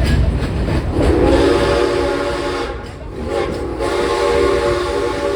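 Steam train's whistle sounding two long blasts, each a chord of several steady tones, over the low rumble of the moving train.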